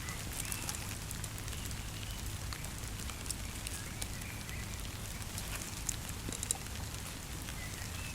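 Campfire crackling: scattered small pops and ticks over a steady hiss, with a few louder pops a little after six seconds in.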